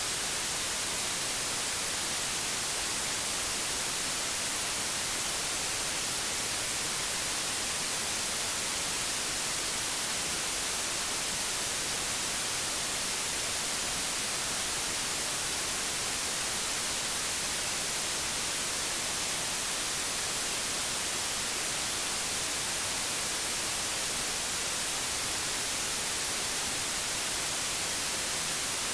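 Analogue television static: a steady, unchanging hiss, brighter in the highs.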